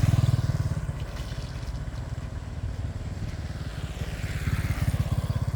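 A small engine running with a rapid, even pulse, loudest near the start and again near the end.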